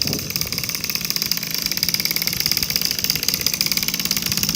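Small two-stroke moped engine running steadily, a fast, even pulse with no revving.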